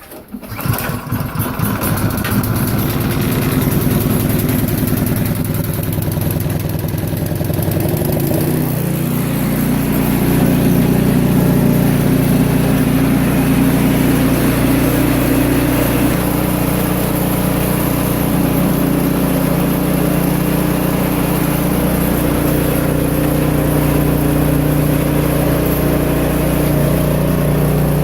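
Craftsman snow blower's gas engine pull-started cold with the choke on and primed, catching on the first pull and running. About nine seconds in it settles into a steadier, slightly louder run.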